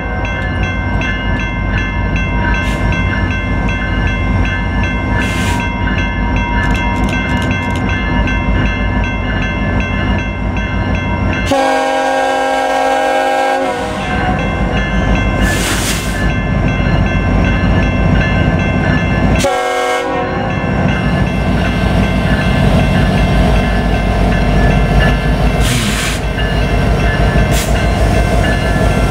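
BNSF freight train's diesel locomotives approaching and passing with a steady rumble of engines and wheels on rail. The air horn sounds one long blast a little before halfway through and a short blast about two-thirds of the way in.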